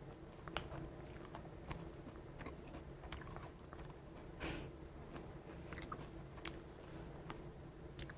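Faint chewing of milk-soaked cereal, with scattered light clicks and a brief rustle about halfway through.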